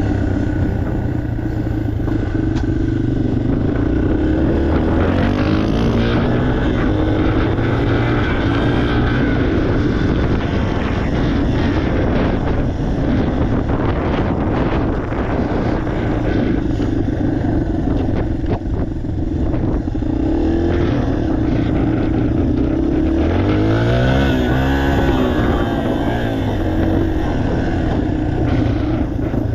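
2023 Yamaha TTR 230's air-cooled single-cylinder four-stroke engine running while the bike is ridden, with the revs rising and falling with the throttle. The clearest swings in pitch come about six seconds in and again about 24 seconds in.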